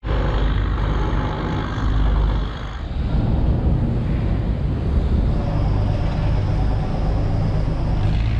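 Steady low engine rumble with a wash of noise, dipping briefly about three seconds in.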